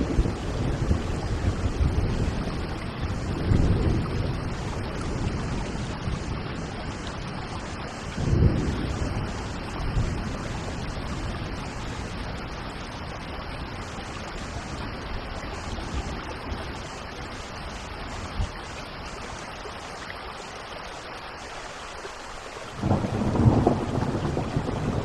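Steady rain with thunder rolling: deep rumbles swell and fade a few seconds in and again about eight seconds in, and a louder rumble breaks near the end.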